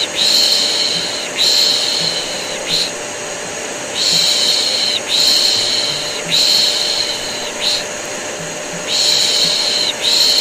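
Rhythmic hushing 'shh' sounds used to soothe a baby, in sets of three long shushes and one short one with a pause of about a second between sets, over the steady running drone of a vacuum cleaner used as white noise.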